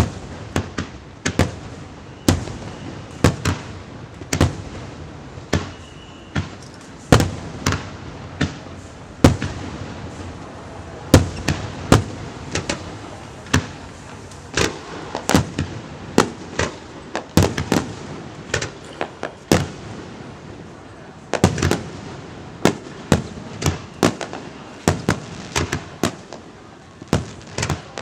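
Aerial fireworks bursting overhead: a quick series of sharp bangs, several a second at its busiest, each with a short rolling echo, over a steady crackle of burning effects.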